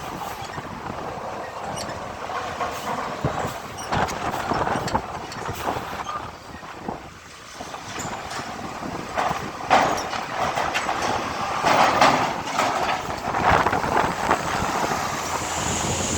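Heavy trucks moving slowly in a queue, engines running, with irregular metallic clanks and knocks; the loudest knocks come near the middle and about three-quarters of the way in.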